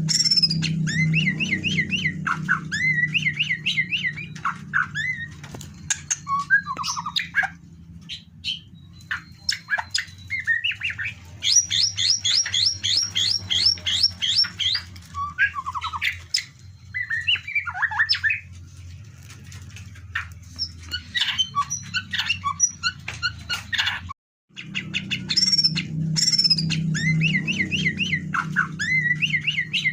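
White-rumped shama (murai batu) singing a long, varied song of whistled phrases, fast trills and chattering notes, over a steady low hum. The sound cuts out briefly about 24 seconds in, then the same song passage starts again.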